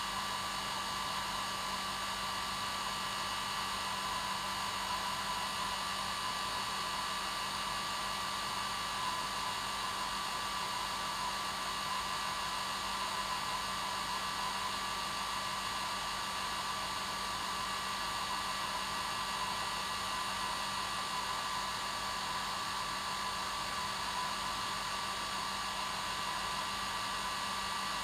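Electric hair dryer running steadily: a constant rushing blow with a steady whine, strongest around 1 kHz and with a low hum beneath.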